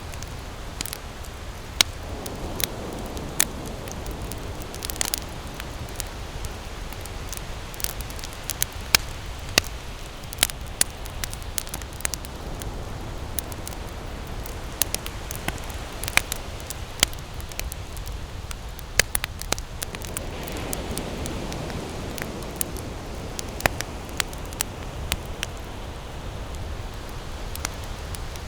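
Wood campfire crackling, with sharp, irregular pops and snaps over a steady low rushing background that swells twice.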